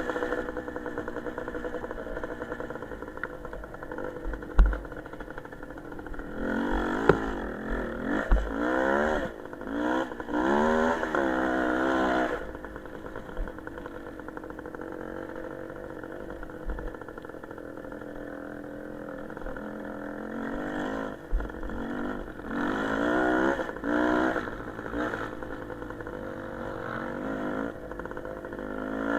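Motorcycle engine running and being revved. Its pitch rises and falls repeatedly for several seconds about a quarter of the way in and again past two-thirds, with steadier running in between. A few short dull thumps are heard, the loudest early on.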